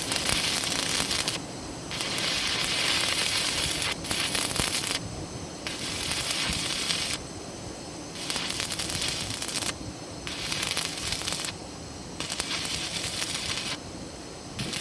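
Electric arc welding on a steel pipe: the arc crackles and sizzles in about seven short runs of one to two seconds each, with brief pauses between them as the welder stops and restrikes.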